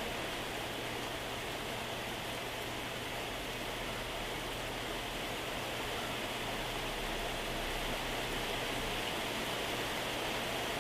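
Moderate to heavy rain falling steadily, an even hiss of drops on surfaces, with a faint low hum underneath.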